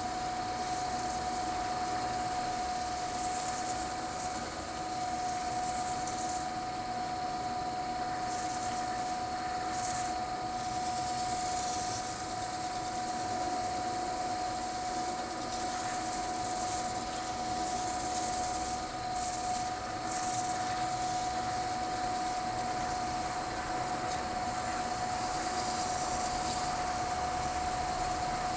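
Wood lathe motor running steadily at a slow speed of about 530 rpm, with a constant whine. Intermittent soft swishes come from a cloth rubbing paste wax onto the spinning wooden bowl.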